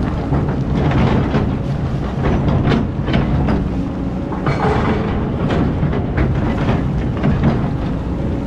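Heavy diesel engine running steadily, with irregular metallic clanks and knocks over it, typical of an excavator at work.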